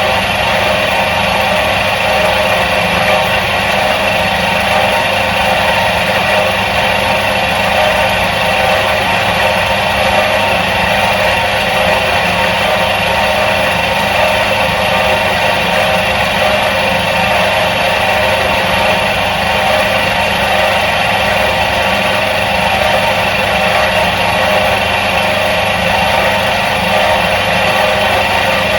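Electric motor of a 1977 Soviet washing machine running steadily: a constant hum with an even whirring noise over it, never changing in pitch or loudness.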